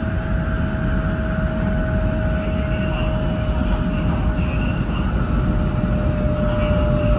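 700 Series Shinkansen train running on the line: a steady, loud rumble with a single steady whine that sinks very slightly in pitch.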